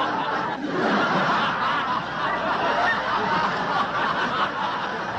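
Many people laughing at once, steady and unbroken.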